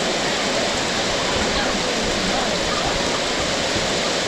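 Heavy tropical rain pouring down steadily, a dense even hiss of water.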